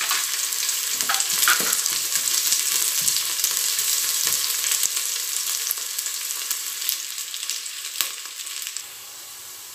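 Sliced onion and garlic sizzling and crackling in olive oil in a stainless steel pot while being sautéed until the garlic browns, stirred with a spatula, with a sharp click about eight seconds in. The sizzle quietens near the end.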